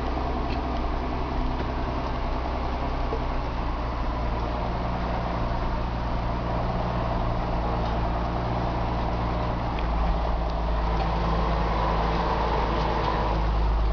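John Deere 6610 tractor's six-cylinder diesel engine running steadily under ploughing load. About ten seconds in, the engine note deepens and grows slightly louder.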